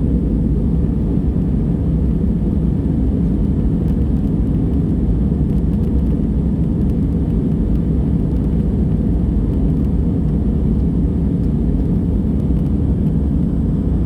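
Steady low rumble of engine and airflow noise inside the cabin of an Airbus A320 airliner, with no changes or distinct events.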